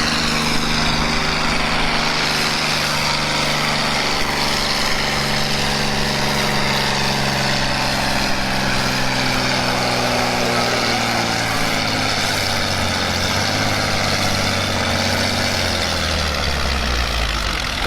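International Harvester pulling tractor's engine running hard under load, its pitch falling slowly and steadily as it lugs down through the pull. Near the end the engine sound drops away.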